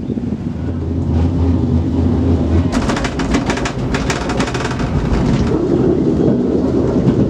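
Skyrail cable-car gondola running with a loud low rumble, and a stretch of rapid rattling clatter for about three seconds in the middle.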